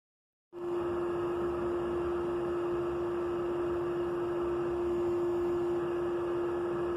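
A steady single-pitch machine hum over an even hiss. It starts abruptly about half a second in, after dead silence, and holds at a constant level.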